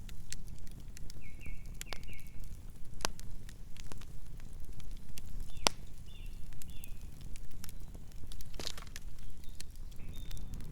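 Campfire burning: irregular sharp wood crackles and pops over a low steady rumble of the flames. Short high chirps come in two or three brief runs in the background.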